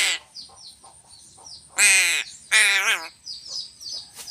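Crow cawing: two loud, harsh caws with a falling pitch about two seconds in, each under half a second, plus the end of one more at the very start. Quick faint high chirps repeat throughout.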